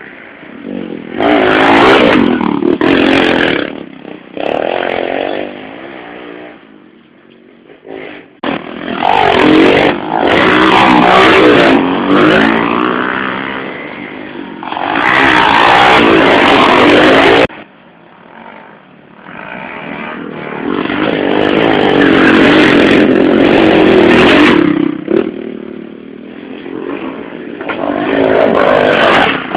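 Small 110cc motorcycles racing on a dirt and sand course, engines revving up and down as they pass close in several loud waves, with quieter gaps between. One pass cuts off abruptly about halfway through.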